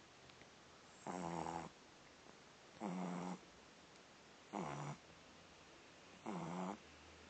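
French bulldog puppy snoring lightly in her sleep: four short, buzzy snores, one about every second and a half to two seconds.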